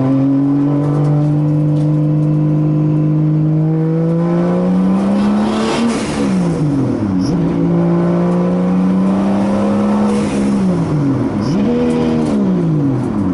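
Turbocharged 2JZ inline-six engine of a Nissan 240SX drift car, held at steady revs, then climbing and dropping sharply about halfway through, rising and holding again, and dropping twice more near the end.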